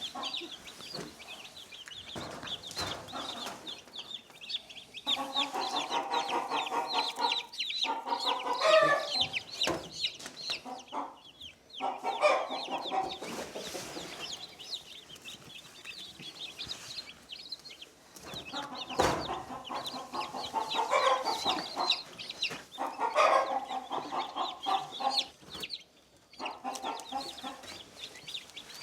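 Chickens clucking and calling in longer, lower bouts, over a near-continuous stream of rapid, high-pitched chick peeps.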